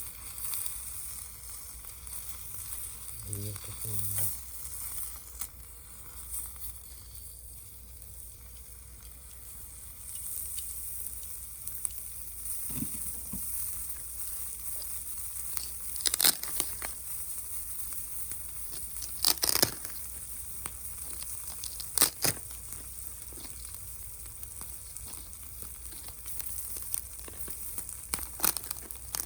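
Food sizzling in a frying pan over a wood gas stove: a steady high hiss, with several sharp pops in the second half.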